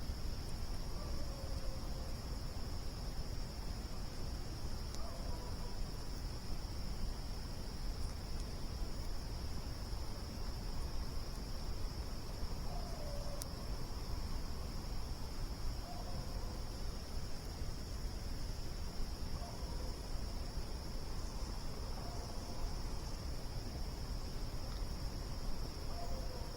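Steady chorus of crickets, a continuous high trill, over a low rumble. Now and then there are faint short falling calls, and a few faint pops from the campfire.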